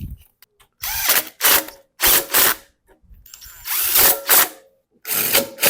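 Cordless drill-driver running in about seven short bursts, each a fraction of a second long, tightening the fasteners on a reassembled small engine.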